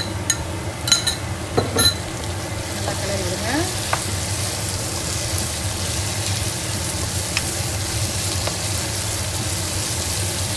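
Diced tomatoes going into hot oil and fried onions in a pan, sizzling and spattering. A metal spoon clinks a few times in the first two seconds as the tomatoes are scraped in. From then on a wooden spatula stirs them through the frying masala, with a steady sizzle that swells after about two seconds.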